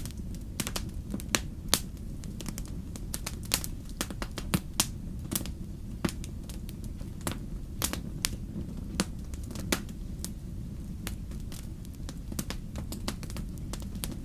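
Wood bonfire crackling: irregular sharp pops and snaps, a few louder ones in the first five seconds, over a low steady rush of the burning fire.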